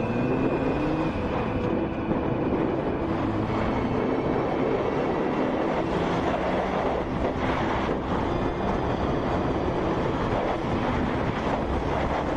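Steady vehicle noise, a continuous mechanical rumble with road or wind noise, with a few faint pitched tones in the first couple of seconds.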